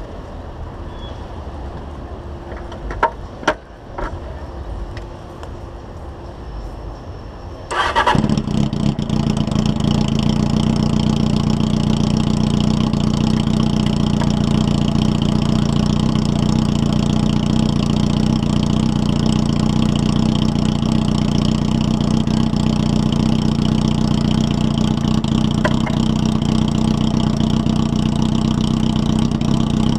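Carbureted Honda Hornet 600 inline-four with a 4-into-1 aftermarket exhaust: a few clicks, then about eight seconds in the engine starts and settles into a steady idle.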